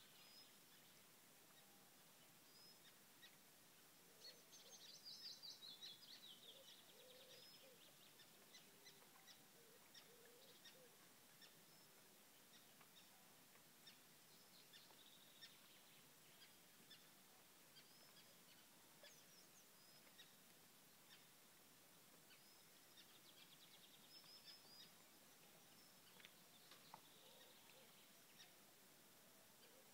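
Faint birdsong: several birds calling, with a louder descending trill about five seconds in and again near the end, scattered short chirps, and some lower calls.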